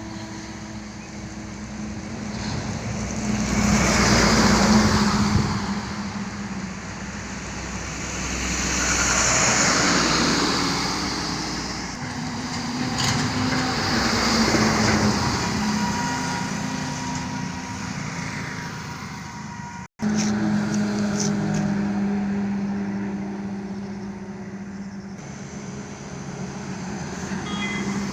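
Trucks passing on a highway: three loud pass-bys swell and fade one after another over a steady engine hum. About 20 seconds in the sound breaks off for an instant, and a steady engine hum carries on after it.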